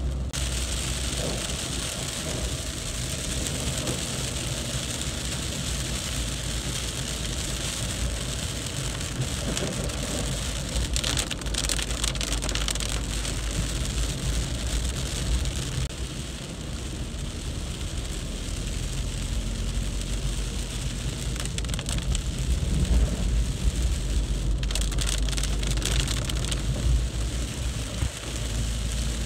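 Heavy, pounding rain falling steadily on the road, a dense even hiss over a steady low rumble. It swells louder about eleven and again about twenty-four seconds in.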